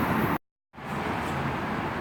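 A passing train's steady rumble cuts off abruptly about half a second in, and after a brief gap a quieter, steady outdoor rumble of vehicle noise takes over.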